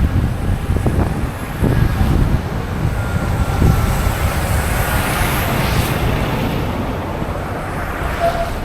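City street traffic: vehicles running with a steady low rumble, and one passing close, its hiss rising to a peak about halfway through and then fading.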